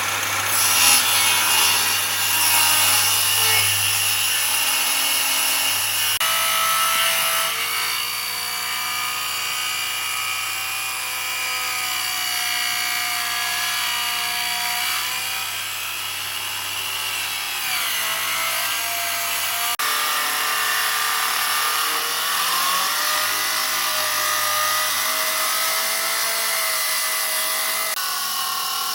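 A power tool working wood: a steady motor hum under a whining tone whose pitch wavers and dips as the tool bites into the wood.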